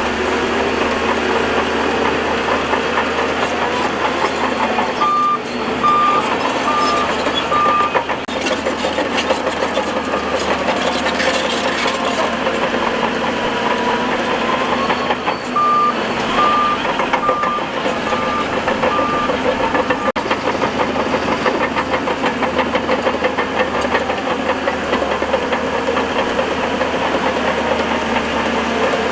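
Heavy earthmoving machinery with its engine running steadily under load, while a reversing alarm beeps: four beeps about five seconds in, then six more from about sixteen seconds in, the last ones fainter.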